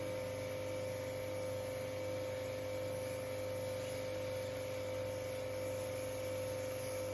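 A small electric motor of the air-conditioner cleaning equipment runs steadily, with a constant mid-pitched hum over an even hiss.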